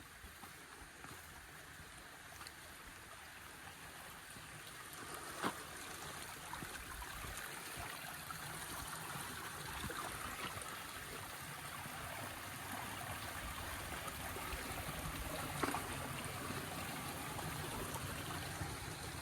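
Running water from a stream trickling and gurgling steadily, growing a little louder over time, with two sharp clicks, one about five seconds in and one near the end.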